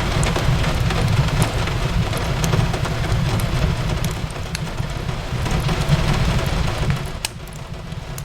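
Fireplace ambience: a wood fire crackling with scattered sharp pops over the steady hiss of rain on a window, with a low rumble underneath. The sound eases briefly near the end.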